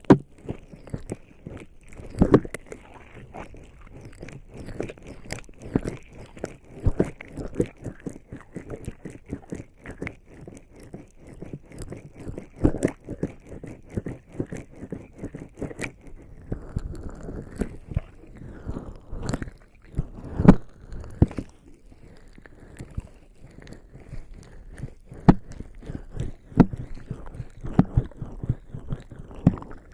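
Bare skin slick with lubricating jelly rubbing, scratching and pressing against the ears of a binaural ASMR microphone: a dense stream of wet crackles, squishes and scrapes, with a few louder thumps.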